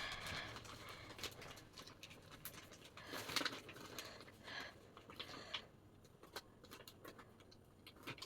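Faint crinkling and clicking of plastic zip-lock bags being handled while being filled and pressed shut.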